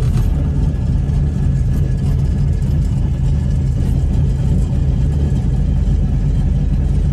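Cammed LS V8 idling from inside the car's cabin, with a steady, lumpy, choppy idle from its camshaft.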